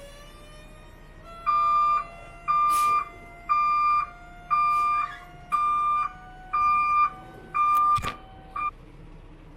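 Truck reverse alarm beeping: a steady electronic beep about once a second, seven long beeps and then a short cut-off one, as the tractor backs under the trailer to hook up. A sharp knock sounds about eight seconds in.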